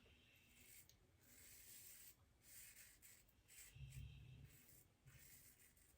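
Near silence, with faint rubbing sounds and a soft low thump about four seconds in.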